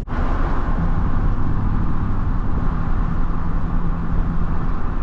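Truck driving on the road: steady engine and tyre noise with a faint steady low hum.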